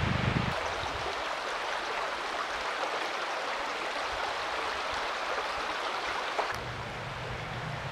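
Mountain stream running steadily, a rushing water noise. A low hum sits under it for the first half second and comes back about six and a half seconds in.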